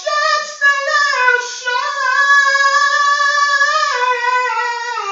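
A solo voice singing unaccompanied, swelling into one long high held note that dips in pitch near the end.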